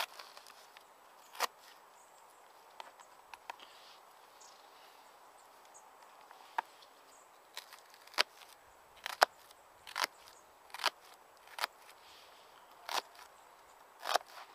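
Kitchen knife cutting an onion into large pieces: about ten sharp, single chopping strokes at irregular intervals, with a faint steady outdoor hiss underneath.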